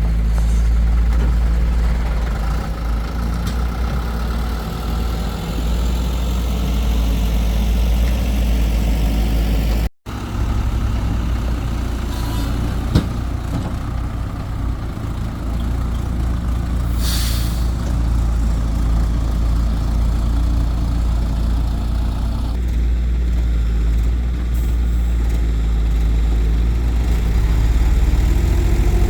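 Excavator's diesel engine running steadily, with a short hiss about two-thirds of the way through and the engine pitch rising near the end.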